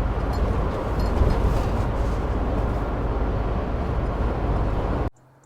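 Steady road and engine noise inside a Sprinter campervan's cab while driving, a dense low rumble with tyre and wind hiss. It cuts off abruptly near the end.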